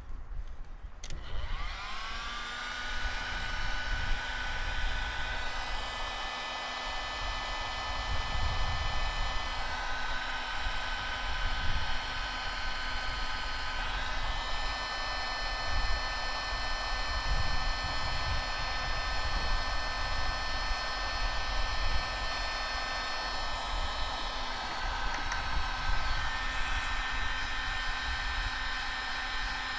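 Electric heat gun switched on about a second in, its fan motor spinning up with a short rising whine, then blowing steadily with a constant whine over the rushing air.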